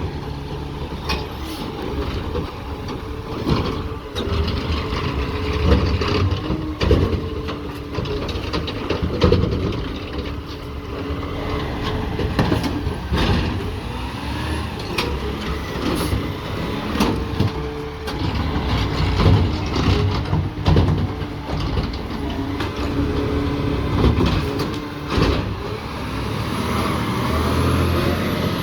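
Peterbilt 520 McNeilus ZR garbage truck running with its engine steady, with repeated clanks and knocks throughout.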